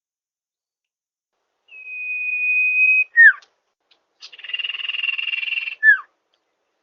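Common iora (cipoh) calling. About two seconds in, one long steady whistle ends in a sharp falling note. Then comes a buzzy, rattling trill of about a second and a half, which ends in the same quick falling note.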